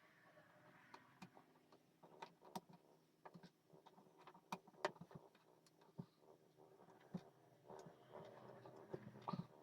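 Irregular light clicks and taps, several a second at times, as a cat paws at a puzzle toy, over a faint low hum.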